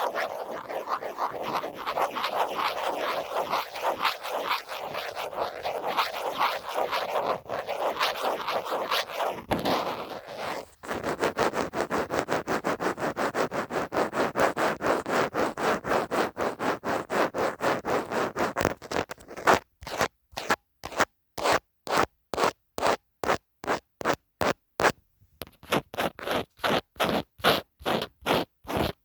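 Scratching on a phone case, at first a dense, fast scratching. Then come quicker even strokes, and in the second half separate strokes about two or three a second, with short gaps between them.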